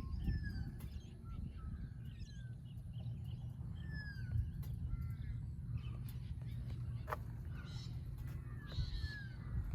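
Birds chirping in short, falling whistled notes over a steady low rumble, with a single sharp click about seven seconds in.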